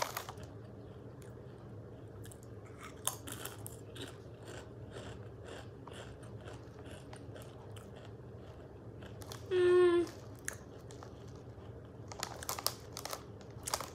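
A person chewing and crunching Doritos tortilla chips, with faint crisp crunches scattered throughout. About ten seconds in there is a short hummed "mm", and there are denser, louder crackles near the end.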